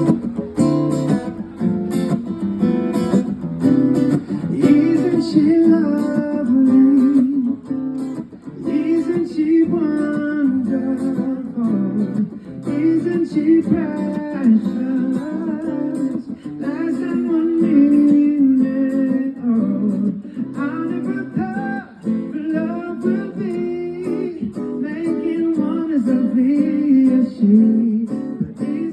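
A solo voice singing to an acoustic guitar accompaniment, the guitar plucked and strummed throughout.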